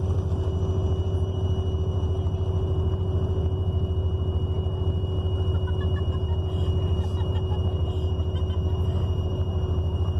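Steady low engine-and-road drone of a moving vehicle heard from inside, with a constant hum over it.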